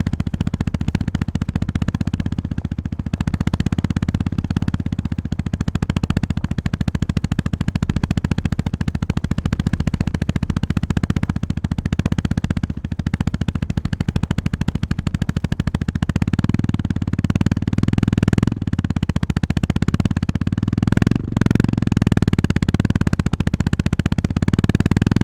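Honda GB350S single-cylinder engine running under throttle on the move, a steady, fast thump with a fuller, louder low end in the last third. It briefly drops out a few times, around the middle and twice more near the end, as the throttle is closed.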